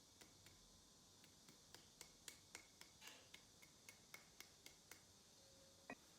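Faint, evenly spaced light clicks, about four a second, then a single sharper knock near the end.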